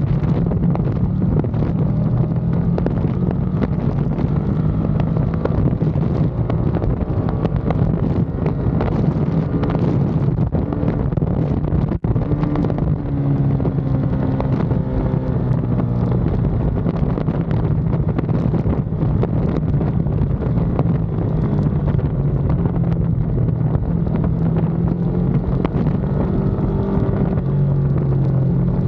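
Ducati Panigale V2's 955 cc L-twin engine running under load on a race track, its pitch rising and falling with throttle and gear changes, over wind noise on the onboard microphone.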